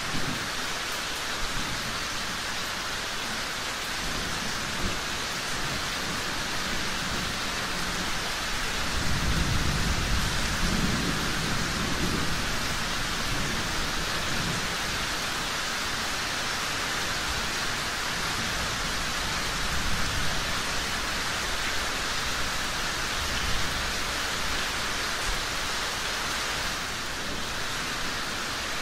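Steady heavy rainfall, with a low rumble of thunder swelling about nine seconds in and fading after a few seconds.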